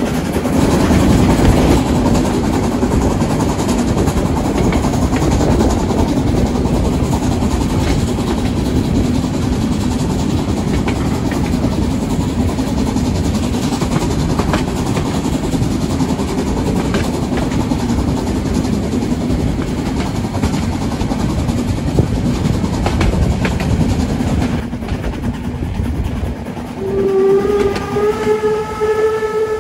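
Narrow-gauge steam train running with a steady loud rumble and occasional knocks. Near the end the steam locomotive's whistle sounds one long held note, rising slightly in pitch.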